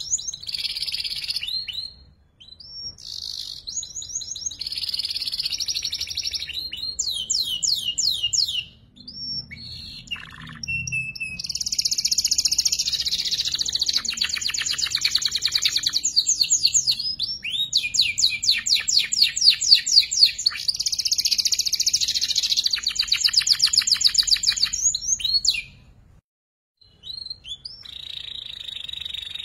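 Young canary singing while still learning its song: long phrases of rapid, high, chattering trills and rolled chirps. The song breaks off briefly about two, nine and twenty-six seconds in.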